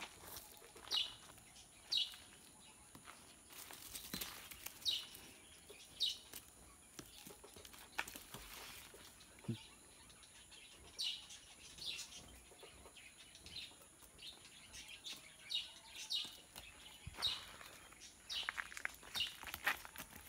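A bird chirping over and over: short falling high calls at roughly one a second, in runs with short gaps. A few brief rustles come in between.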